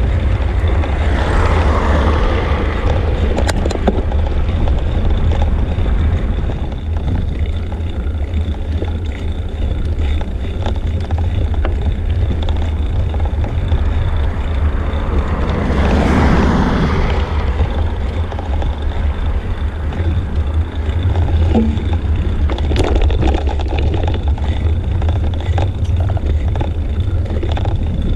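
Wind buffeting the microphone of a bike-mounted action camera during a road ride, a loud steady low rumble. Over it, road noise swells and fades twice, about two seconds in and again around sixteen seconds, as vehicles pass.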